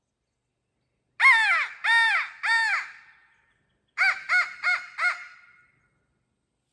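Quaker Boy crow call blown in imitation of a crow: three drawn-out caws, then after a short pause four short, quick caws.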